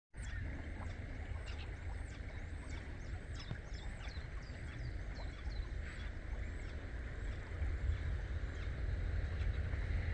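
Birds chirping: a quick run of high notes, each falling in pitch, about two a second for the first four seconds and then sparser, over a steady low rumble.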